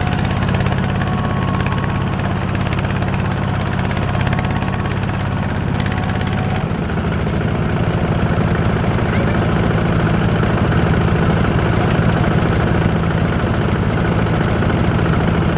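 Tractor diesel engine running steadily, its note changing about six and a half seconds in.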